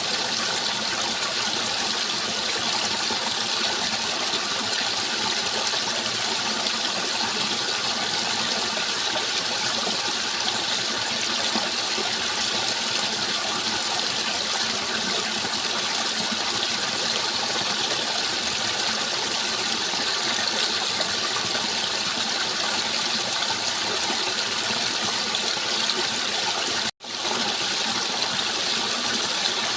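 Steady, even rush of flowing water, without change, except for a momentary cut-out near the end.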